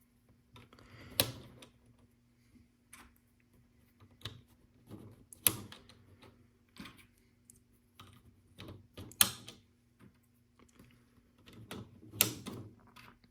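Small LEGO pieces clicking as they are picked up and pressed onto a LEGO Art mosaic baseplate: four sharper snaps, about a second in, at about five and a half seconds, about nine seconds and about twelve seconds, with softer clicks and plastic rattles between.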